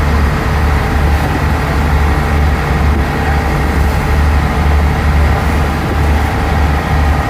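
Passenger ferry's engine droning steadily, heard from on board, with a strong low hum that swells and eases slightly.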